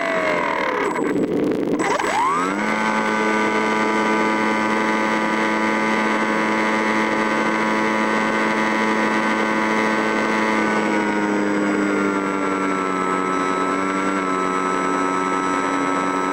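A loud, steady, pitched machine-like whine. It drops away at the start, sweeps up to a steady pitch about two seconds in, holds, sags slightly in pitch later on, and falls away again at the end.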